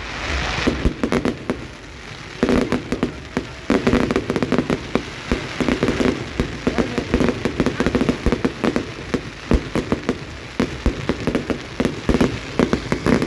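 Fireworks crackling: a dense, rapid run of small pops and crackles like rain, thickening about two seconds in and keeping on.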